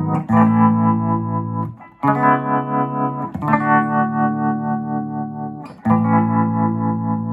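Electric guitar played through a restored circa-1965 Gibson GA-25RVT Hawk tube amp, recorded on a phone: four strummed chords, each left to ring for one to two seconds before the next.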